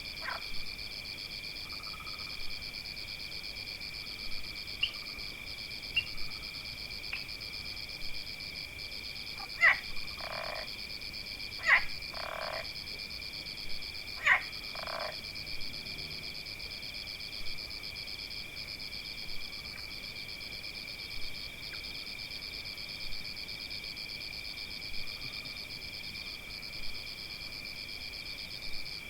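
Frog chorus with insects: a steady high trilling, a call repeating about every two seconds, and a few louder croaking calls around the middle.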